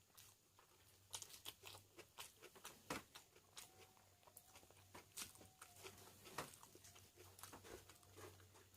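Faint eating sounds: a person chewing and handling food by hand, with many small crunches and clicks scattered through, the sharpest about three seconds in and again near the middle.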